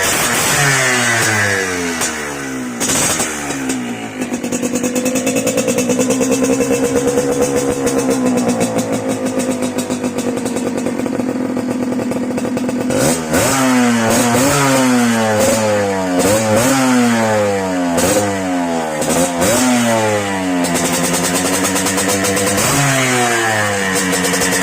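Yamaha DT125's single-cylinder two-stroke engine with an aftermarket RF Pipe expansion-chamber exhaust being revved. The revs fall away, are held up for several seconds, then rise and drop in a run of quick throttle blips about a second apart, and settle back near the end.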